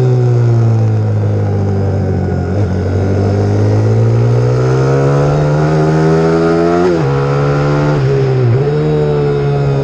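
Pit bike's single-cylinder four-stroke engine under way on the track, the revs easing off for a few seconds and then climbing steadily. About seven seconds in the pitch drops suddenly at a gear change, dips once more a little later and climbs again.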